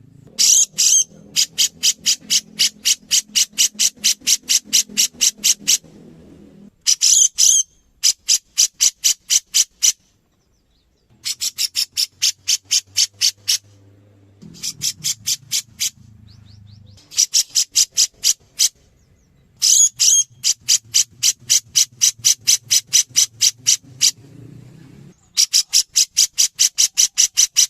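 Cucak jenggot (grey-cheeked bulbul) calling: long runs of sharp, evenly repeated high notes, about four or five a second, broken by short pauses. A few runs open with a louder, slurred note.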